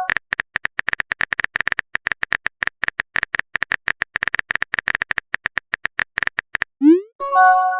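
Phone-keyboard typing sound effect: rapid key-tap clicks, several a second, for about six and a half seconds. Near the end comes a short rising swoosh, then a bright message chime of a few steady tones.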